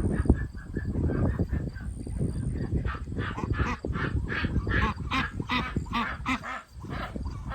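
Domestic ducks quacking, a rapid run of loud calls starting about three seconds in, over a low rumbling noise that is loudest at the start.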